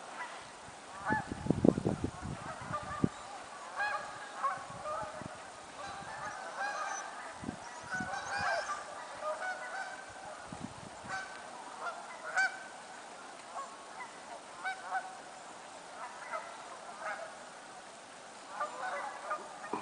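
A large flock of Canada geese and snow geese honking continuously, many short calls overlapping. A few low bumps, louder than the calls, come about one to three seconds in.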